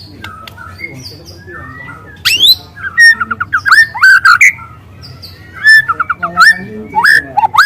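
Juvenile white-rumped shama (murai batu) singing: quiet whistled notes at first, then from about two seconds in loud bursts of rapid rising chirps and sweeping whistles.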